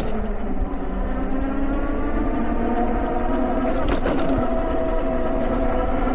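The 1500 W motor of a TST R002 electric bike whines steadily while cruising, its pitch drifting slightly with speed, over a low wind rumble on the microphone. A brief rattle comes about four seconds in.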